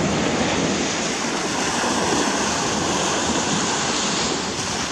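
Ocean surf washing on the beach, a steady rush, with some wind on the microphone.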